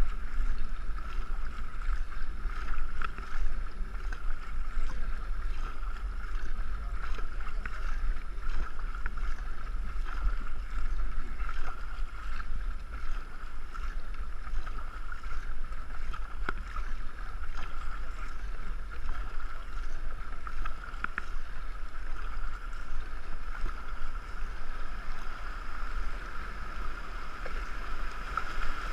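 Two-man racing canoe being paddled down a river: a steady rush of water against the hull and paddles, with wind buffeting the microphone.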